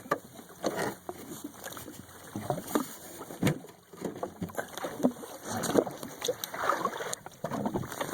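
Small waves slapping and splashing against the hull of a drifting jet ski, its engine off, with irregular knocks.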